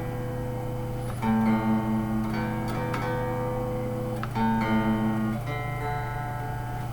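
A 1987 Fender electric guitar strung with Yamaha 009–042 super-light strings, played through an amplifier: chords struck and left to ring, with new chords about a second in and twice more near four and five and a half seconds in. A steady low hum runs underneath.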